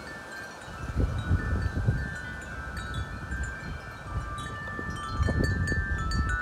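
Wind chimes ringing continuously in strong, gusty wind, several overlapping tones sounding together. Wind buffets the microphone underneath, gusting up about a second in and harder again from about five seconds.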